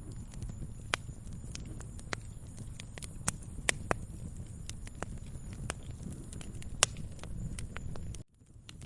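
Wood fire crackling: sharp, irregular pops and snaps over a low, steady rumble. The sound drops out suddenly near the end and then comes back.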